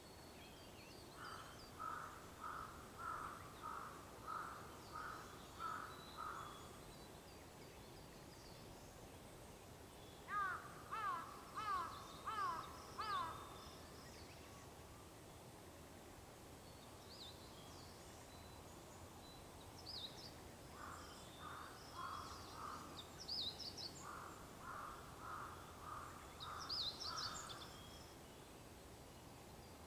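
Wild birds calling at dawn: a run of about nine evenly spaced calls, then a louder set of five calls that slide down in pitch, then more repeated calls mixed with high, quick chirps from smaller birds.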